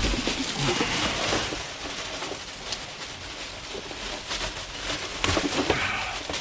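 Plastic bags and items rustling and clattering as a dumpster's contents are rummaged through, with scattered small knocks and crinkles.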